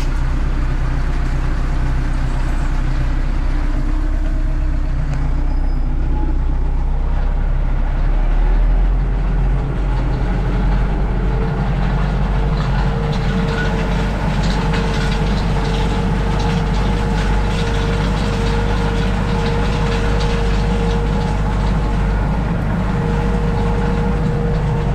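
Tractor engine running steadily, picking up load about eight seconds in as it starts pulling a homemade harrow across grass. From about ten seconds in, a steady whine and fast rattling join the engine.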